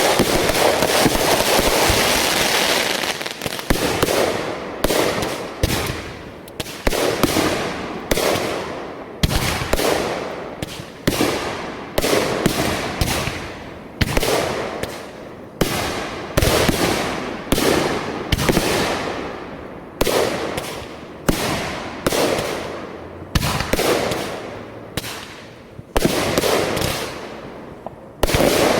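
Fireworks going off: a dense crackling at first, then a long string of sharp bangs about one a second, each followed by a crackling tail.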